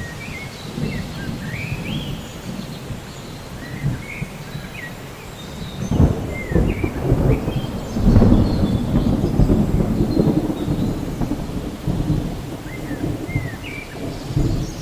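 Thunderstorm: steady rain with thunder that breaks in suddenly about six seconds in and rumbles loudly for several seconds before easing. Short high chirps sound on and off throughout.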